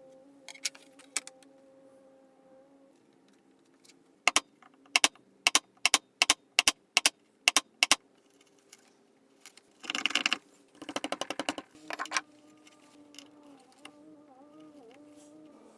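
A run of about ten loud, sharp knocks, two or three a second. After them comes a short scraping rush, then a quick rattle of small clicks and one last knock.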